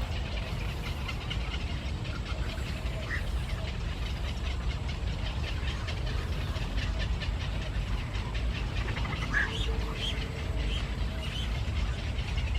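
A bird giving short, high chirps, a few louder calls near the end, over a steady low rumble.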